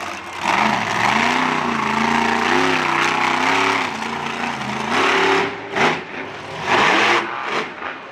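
Monster truck engine revving hard: a long burst of throttle with the revs rising and falling, then several short sharp blips of throttle in the second half.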